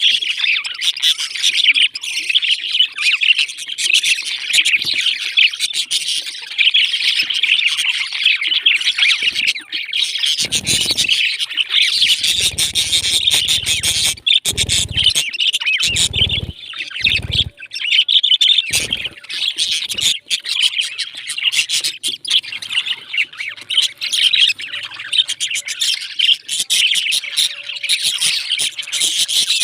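Pet parrots chirping and chattering continuously in a dense high twitter, with a few dull low thuds in the middle.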